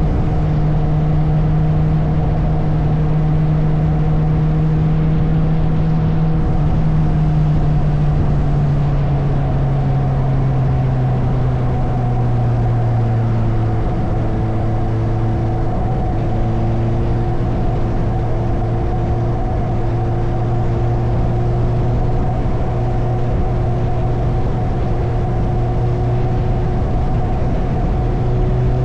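Suzuki motorcycle engine running under way at a steady cruising pitch, with a constant rush of noise beneath it. The engine note eases down about ten seconds in, then holds steady.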